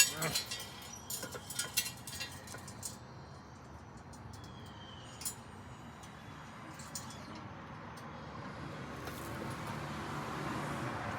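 Light metallic clinks and rattles of a floor jack and steel jack stands being handled under a car, mostly in the first few seconds. Toward the end a faint steady noise slowly builds.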